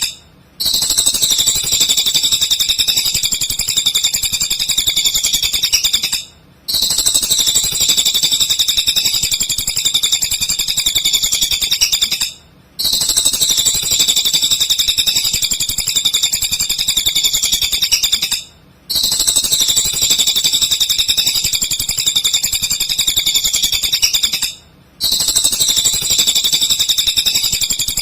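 A cililin bird singing in a rapid, continuous, high-pitched chatter. It runs in stretches of about six seconds, each broken by a brief half-second pause.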